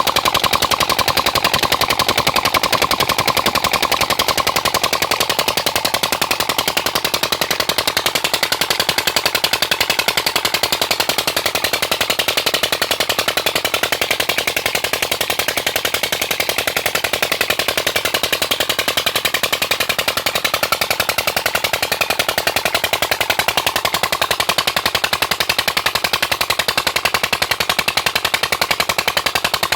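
Old stationary diesel engine driving a tubewell pump, running steadily with a rapid, even exhaust beat.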